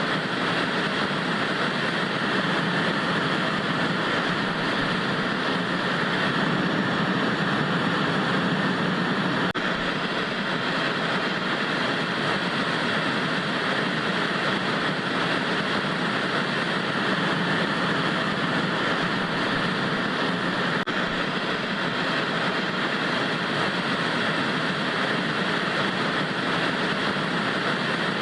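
Analog TV static: a steady, unchanging rushing hiss of white noise.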